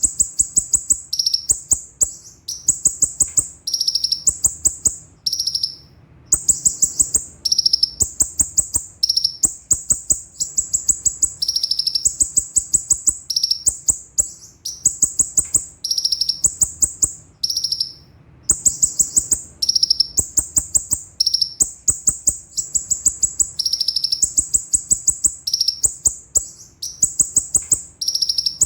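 Kolibri ninja (konin) sunbird singing: very high-pitched, rapid trills of note strings in bursts of about a second, switching back and forth between a higher and a lower pitch, repeated with short gaps.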